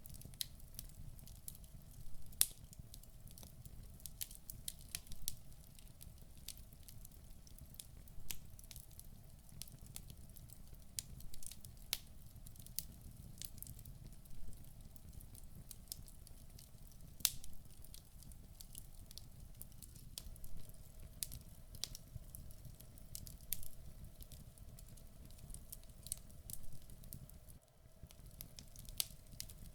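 Wood logs burning in a fireplace: irregular sharp crackles and pops, a few each second, over a low steady rumble of the flames.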